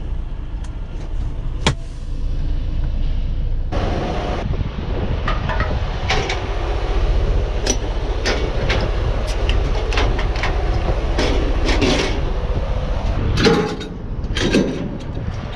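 Heavy truck's diesel engine running with a steady low rumble, joined about four seconds in by a run of irregular metallic clanks and knocks.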